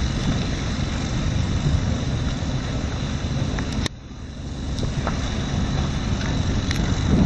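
Wind rumbling on the microphone over outdoor harbour noise, dropping off suddenly about four seconds in and then building again.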